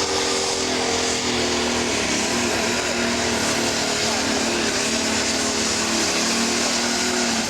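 Pro stock pulling tractor's turbocharged diesel engine running hard at steady high revs, with a high steady whine over the engine.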